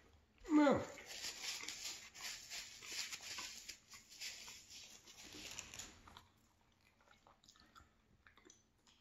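Close-up chewing of a crusty baked cheese bagel: dense crunching for about five seconds, then quieter, slower chewing. It opens with a brief, loud sound that slides steeply down in pitch.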